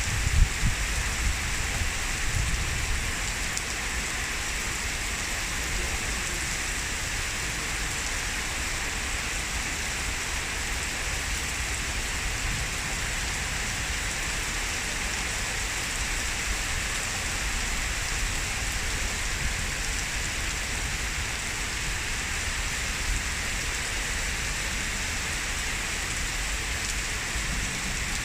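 Heavy downpour during a thunderstorm: a steady rush of rain falling on surfaces, with a low rumble and a few louder splashes in the first couple of seconds.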